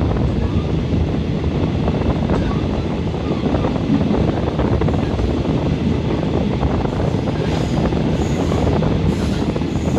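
Steady running noise of a train carriage in motion: a dense low rumble of wheels on the rails, with some wind noise.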